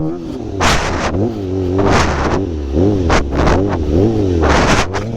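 Sportbike engine revving up and down several times in quick succession as the throttle is worked, with gusts of wind noise on the microphone.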